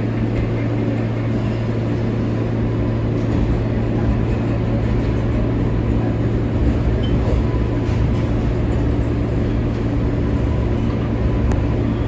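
R143 subway car running on the J line, heard from inside the car: a steady electric motor hum with wheel and track noise. The low rumble grows a little stronger about three and a half seconds in.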